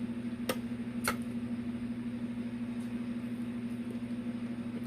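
Steady low hum of a motor or electrical appliance, with two light clicks about half a second apart near the start.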